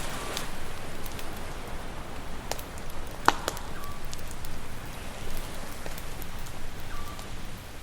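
Campfire crackling with scattered sharp pops, the loudest about three seconds in, over a steady wash of sea waves.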